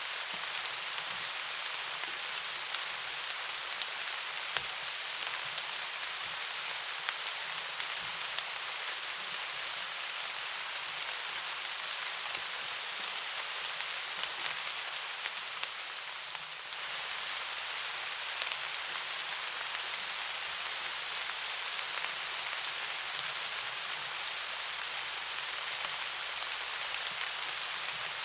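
Steady rain falling: an even hiss with scattered sharp drop ticks. The sound dips slightly for a moment a little past halfway, then carries on.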